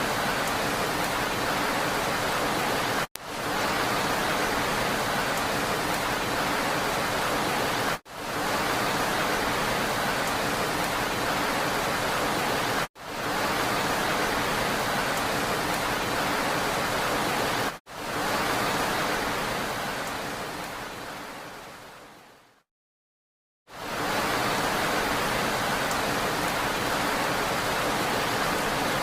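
Steady rain hiss with no distinct drops. It breaks off for a split second about every five seconds, as a short loop restarts. About three-quarters of the way through it fades to a second of silence, then comes back.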